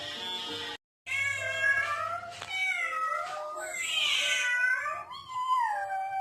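Several meowing calls in a row, each rising and falling in pitch, after a short silent break about a second in.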